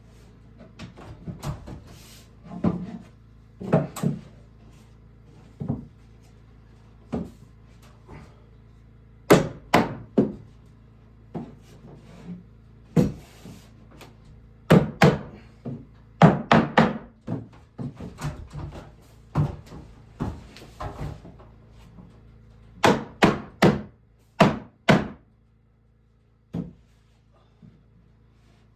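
Irregular knocks and thuds of wood being struck and handled during cabin carpentry. Single blows are spread out, with quick clusters of three or four strikes near the middle and about two-thirds of the way in.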